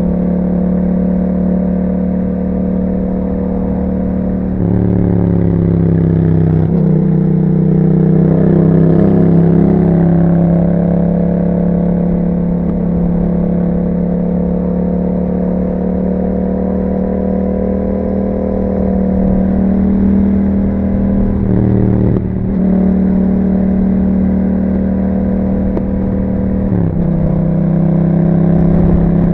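A 2021 Yamaha MT-07's parallel-twin engine running through an aftermarket Akrapovic exhaust while under way, with a steady exhaust note. The pitch shifts with throttle or gear changes about five and seven seconds in, and again about 22 and 27 seconds in.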